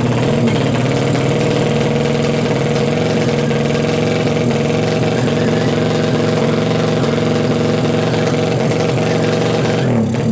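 Kawasaki KLX drag bike's single-cylinder four-stroke engine, bored out to 180cc, running at a steady speed.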